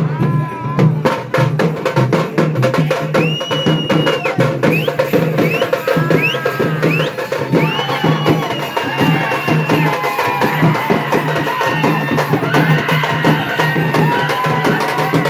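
Festival drums, most likely dappu frame drums, beaten in a fast, dense, driving rhythm to accompany a Potharaju dance. High pitched calls or whistles rise and hold over the drumming.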